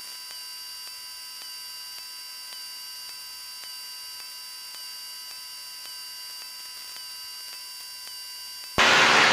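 Steady electrical hum and whine on the aircraft's radio and intercom audio, made of several steady high tones with faint regular ticks about every 0.7 s. Near the end a loud burst of radio static lasts under a second, as a transmission opens the channel.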